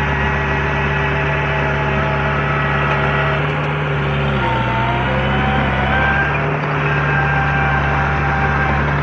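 Heavy diesel engine of earthmoving machinery running steadily; its note changes a little over four seconds in, dropping and then settling at a new pitch.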